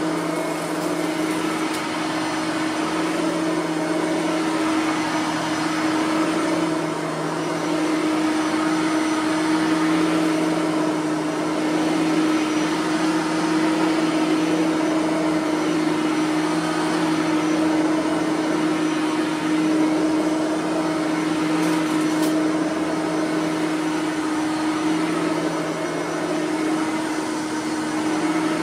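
Bissell 3510 bagged upright vacuum cleaner running on a rug, a steady motor hum that swells and eases a little as it is worked over the pile.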